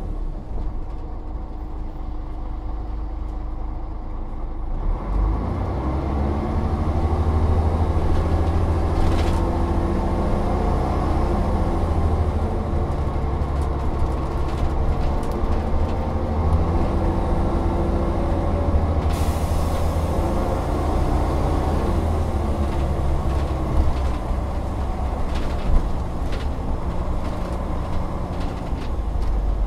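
Volvo Olympian double-decker bus engine running under way, its note stepping up and down as it pulls and changes gear. Two short hisses of air come about nine and nineteen seconds in.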